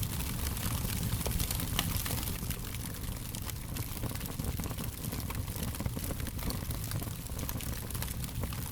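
Wood fire crackling steadily: a low rumble and hiss of burning with frequent small pops and snaps scattered irregularly throughout.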